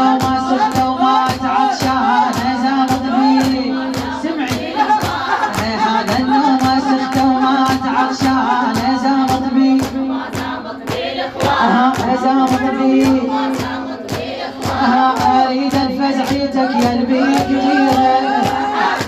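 Vocal intro of a Shia latmiyya: a chorus of voices sings over a sustained low drone and a steady percussive beat of about two strikes a second.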